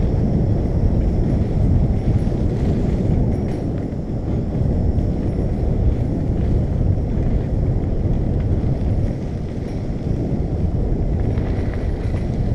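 Steady low rumble of wind buffeting a microphone carried along on a moving bicycle, mixed with road noise.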